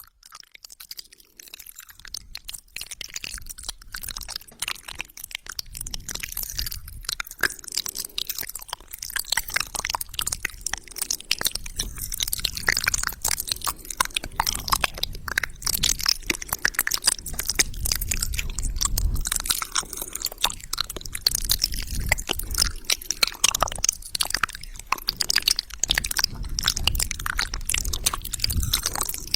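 Wet mouth sounds made close to a microphone: rapid lip smacks, tongue clicks and saliva pops, dense and continuous, building up over the first few seconds.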